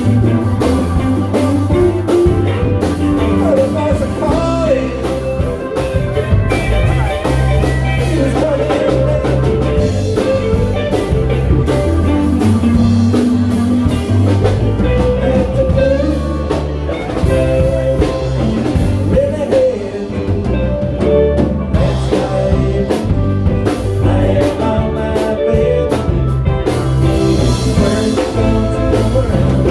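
Live band playing blues-style music, with drum kit and guitar keeping a steady beat.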